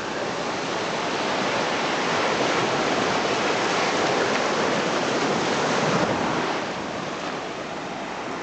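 Ocean surf washing onto a beach: a steady rush of breaking waves that swells and then eases off after about six seconds.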